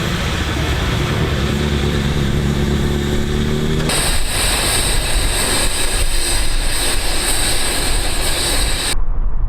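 An engine running at a steady, slightly rising pitch. About four seconds in it cuts abruptly to loud, steady hissing with a high, shrill edge.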